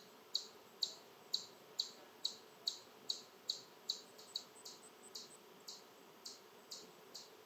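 A small animal giving repeated sharp, high chip calls, about two a second, steady at first and a little weaker and less even in the second half.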